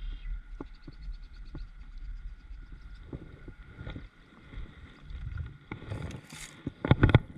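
Handling noises on a fishing kayak: a low rumble of water and wind on the microphone, a brief splash-like hiss about six seconds in, then a quick cluster of loud knocks against the hull near the end.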